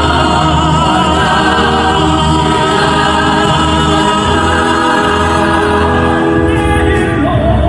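A musical-theatre ensemble number: a choir of voices sings sustained notes over a loud musical backing.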